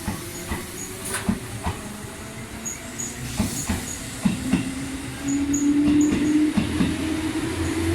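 Seibu 4000 series electric train running past, its wheels clacking over rail joints in repeated sharp clicks, with a steady motor hum that grows louder about five seconds in.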